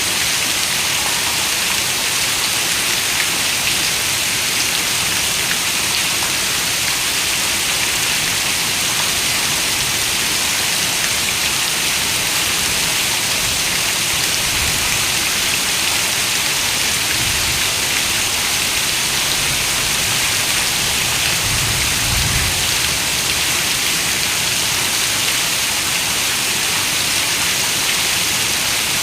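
Heavy rain falling steadily, an even hiss that never lets up. A few soft low rumbles swell up in the middle, the strongest about two-thirds of the way through.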